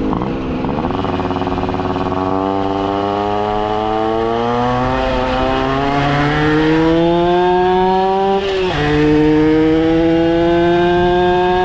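80cc Minarelli AM6 two-stroke engine of a Tomos moped accelerating hard through the gears: its pitch climbs steadily for several seconds, drops suddenly at an upshift about eight and a half seconds in, then climbs slowly again. A shorter dip and recovery about half a second in marks another gear change.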